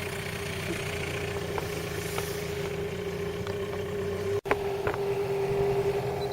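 A small boat engine running steadily at idle-like speed with an even hum. It drops out for an instant about four and a half seconds in, then carries on unchanged.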